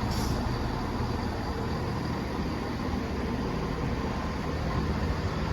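Chiltern Railways Class 168 diesel multiple unit standing at the platform, its diesel engines idling with a steady low rumble. A short hiss of air at the start.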